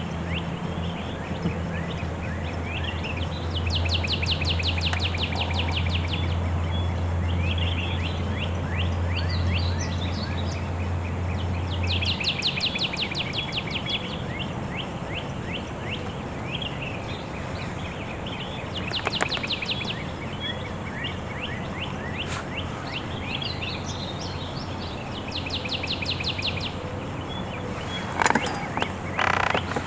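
Several wild songbirds chirping and singing, with fast high trills a few seconds long repeated several times, over a low steady hum that stops about twelve seconds in.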